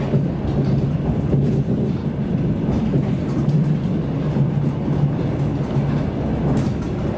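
Running noise of an electric passenger train heard from inside the carriage: a steady low hum and rumble, with a few faint clicks from the wheels and track.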